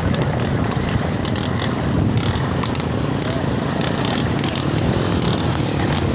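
Floodwater rushing with force, a steady noisy rush with crackling splashes.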